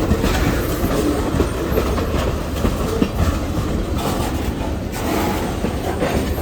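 Freight train rolling past close by, its wheels clacking and knocking over the rail joints in an irregular run of beats over a steady rumble.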